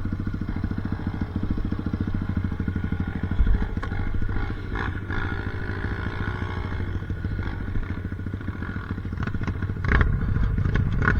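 Enduro dirt-bike engine running steadily, with a few brief knocks and clatters about three and a half seconds in and near the end.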